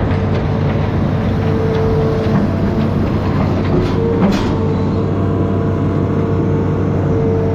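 Amphibious excavator's diesel engine running steadily under load, with a steady whine over it and a brief knock about four seconds in.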